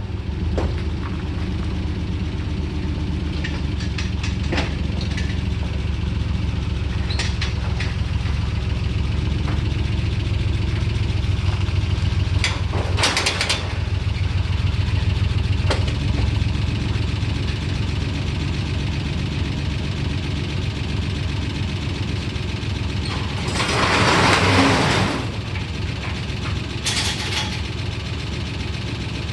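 Engine idling steadily with a fast, even firing rhythm, a few clicks, and a short loud hiss near the end.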